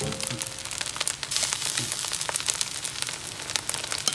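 Fried rice sizzling and crackling in a hot wok as shrimp are tipped in and stirred through with a spatula.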